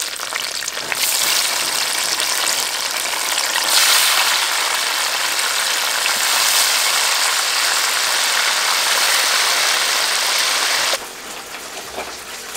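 Chunks of green breadfruit frying in a deep pot of hot oil: a steady sizzling hiss that gets a little louder about four seconds in. Near the end it cuts off sharply, leaving a softer, even hiss.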